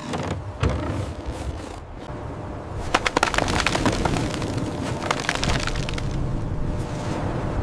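Crackling and sharp cracks over a steady noisy rumble, densest about three seconds in with another run around five seconds.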